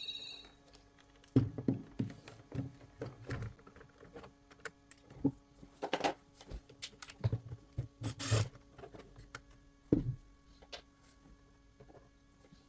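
Plastic parts of a Xiaomi robot vacuum being handled by hand: irregular clicks, knocks and dull thuds.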